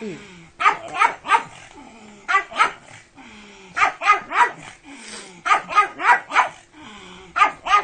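Pug barking in quick bursts of two to four barks, a burst about every second and a half, with low, falling whines between the bursts.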